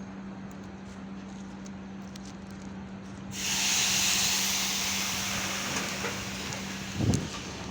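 Electric train's pneumatic system venting compressed air: a sudden loud hiss that starts about three seconds in and slowly fades, over a steady low electric hum. A dull thump comes near the end.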